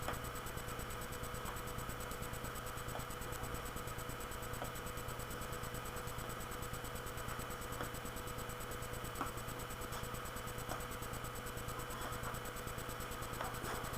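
Steady background hiss and electrical hum, with a few faint clicks now and then.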